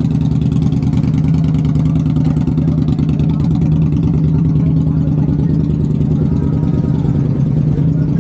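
Harley-Davidson V-twin motorcycle engine running at a steady pace under way, a loud, even low drone with no revving.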